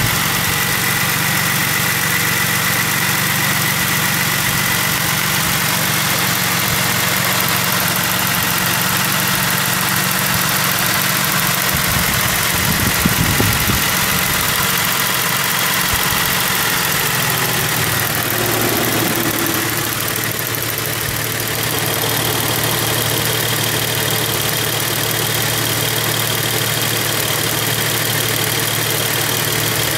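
Holden Rodeo 3.6-litre V6 engine idling steadily with the bonnet open.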